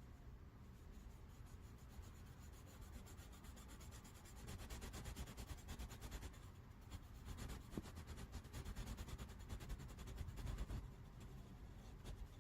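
Faint, quick back-and-forth strokes of a small drawing tool rubbing on paper, as color is worked into the paper. The strokes grow louder and busier from about a third of the way in, then ease off near the end.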